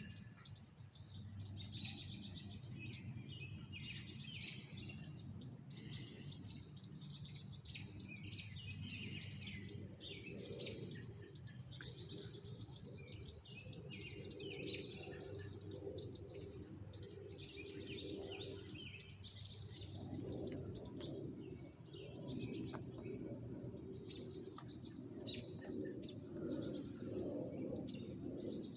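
Several birds chirping and singing throughout, over a low, steady background rumble.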